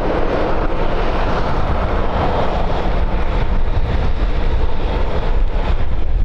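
Jet noise from a landing airliner passing, swelling and then slowly easing, with wind buffeting the microphone.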